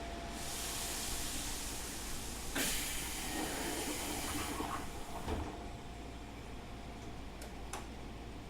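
Compressed air hissing out of a Keikyu 2000 series train's pneumatic system as it stands before departure. A knock comes about two and a half seconds in, and the hiss cuts off with another knock about five seconds in. Two light clicks follow near the end.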